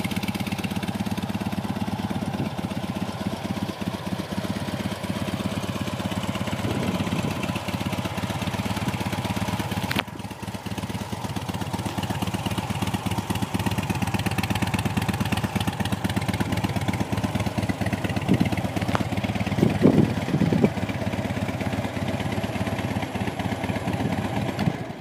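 2009 Harley-Davidson Dyna Low Rider's 96-cubic-inch Twin Cam V-twin idling steadily through its stock exhaust, a little louder for a moment about twenty seconds in, then stopping abruptly at the very end.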